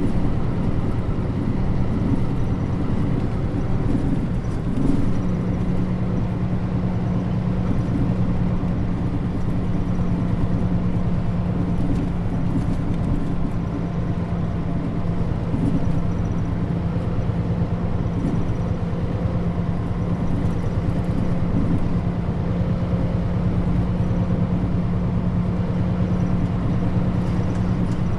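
Mitsubishi Fuso Aero Star bus (Nishitetsu body, KL-MP35JM) heard from inside the cabin while driving: a steady engine drone with road noise. The engine note changes about five seconds in, then holds steady.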